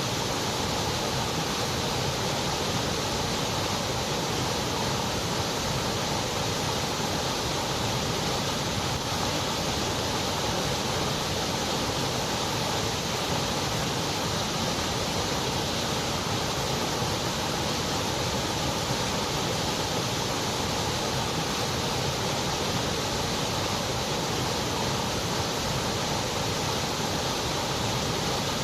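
Continuous white noise: an even, steady hiss that does not change.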